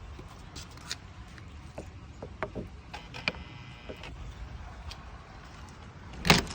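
Scattered clicks and knocks over a low steady rumble, with a short squeak in the middle and one loud thump near the end.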